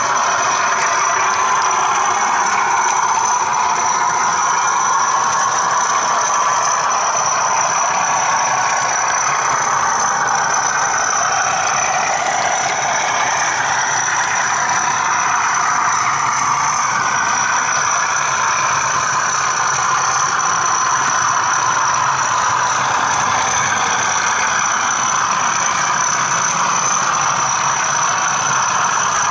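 Bachmann Class 37 model diesel locomotive running with its ESU sound decoder playing diesel engine sound, heard close behind it along with the running noise of the model train, and a steady high-pitched whine over it.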